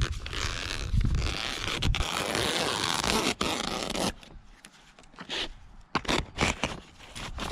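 Greenhouse plastic film being sliced with a blade: a continuous zipper-like rasp for about four seconds, then short separate scrapes and cuts.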